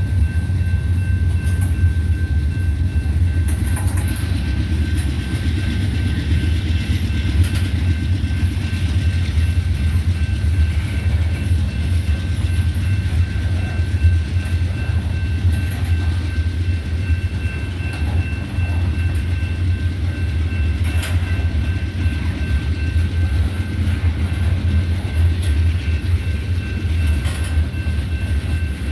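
Manifest freight train rolling past, a steady low rumble with faint steady high tones and a few scattered sharp clicks.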